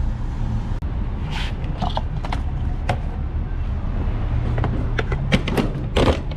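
A car's engine running with a steady low rumble, and a scatter of sharp clicks and knocks over it, the loudest near the end.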